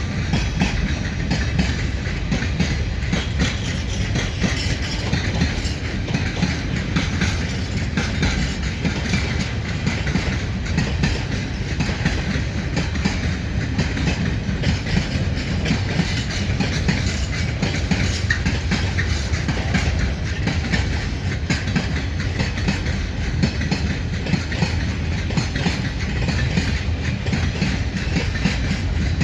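Freight train rolling past: a steady rumble of wagons with wheels clattering over the rail joints.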